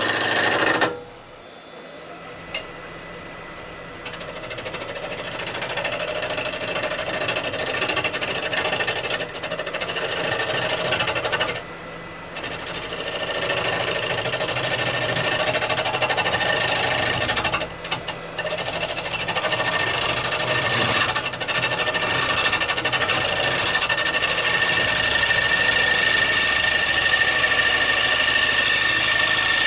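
Wood lathe spinning a rowan bowl blank while a bowl gouge cuts it, a dense rattling cut. The cut falls away sharply about a second in, builds back over the next few seconds, breaks off briefly twice, then runs on loud and steady.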